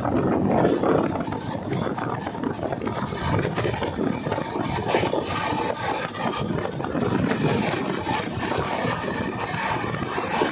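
Express train passenger coach running at high speed, heard from its open doorway: a steady rattling rumble of steel wheels on the rails.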